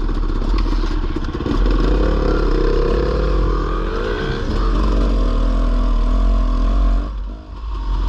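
Dirt bike engine running under throttle, its note climbing and wavering as it revs through the gears. Near the end the engine sound drops off briefly, as when the throttle is closed.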